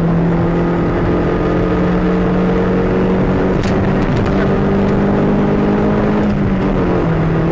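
Car engine and road noise while driving: a steady engine hum that rises slightly in pitch a few seconds in and drops back near the end.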